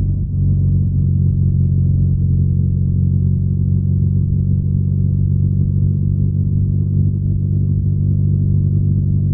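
BMW R nineT's air/oil-cooled boxer twin engine and exhaust running at a steady speed under way, a low, even drone.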